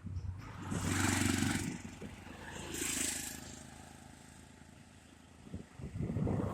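Two motor vehicles passing by one after the other, each a swell of engine and tyre noise that rises and fades within about a second. Noise rises again near the end.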